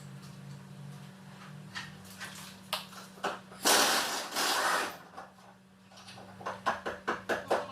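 Mechanical clicks and knocks of tools and parts being handled, with a loud rushing scrape lasting about a second near the middle and a quick run of clicks near the end, over a steady low hum.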